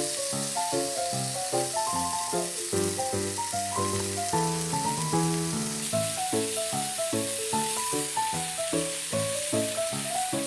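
Food sizzling as it fries in a pan, a steady hiss, under background music with a clear melody of short, distinct notes.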